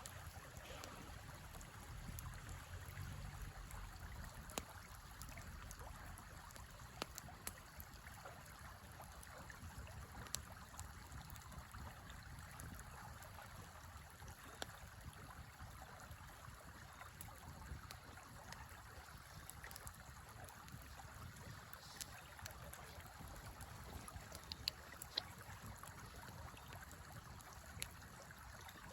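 Faint, steady rush of a flowing river, with a few scattered sharp pops and crackles from a wood campfire.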